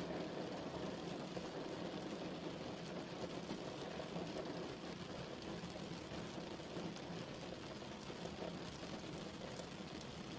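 Steady rain falling, a continuous even hiss with its weight in the lower range and no separate drops or thunder standing out.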